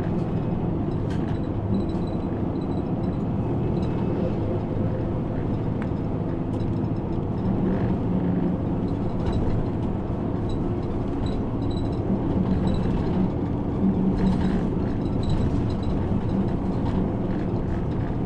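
Route bus running on the road, heard from inside the cabin: a steady engine hum with frequent light rattles and ticks from the bus's fittings.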